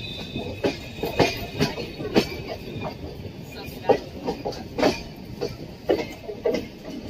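Moving passenger train's wheels clattering over rail joints and points: a steady running rumble broken by irregular sharp clacks and knocks.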